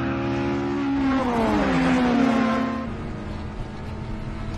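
Sports car engines running hard in a race. The engine note slides down in pitch about a second in, then holds steadier and a little quieter for the rest.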